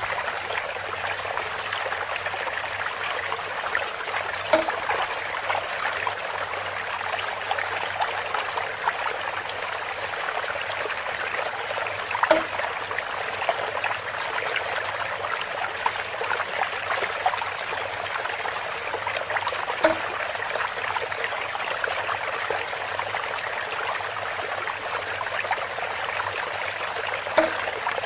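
Water trickling steadily through a bamboo spout. Four short pitched knocks come at even spacing, about every seven and a half seconds.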